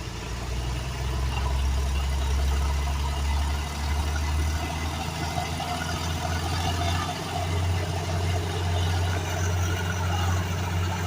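A large engine running steadily at idle, a low, even hum with a slight change in its note about seven seconds in.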